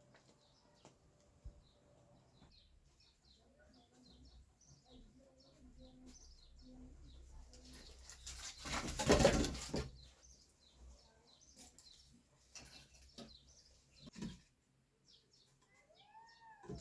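Small birds chirping over and over, with a loud rushing burst of noise lasting about a second and a half near the middle.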